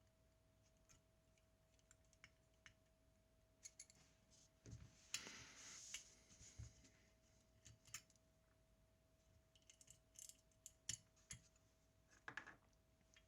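Faint scattered clicks and taps of small tools and camera parts being handled, with a brief scraping rustle about halfway through, over a faint steady hum tone.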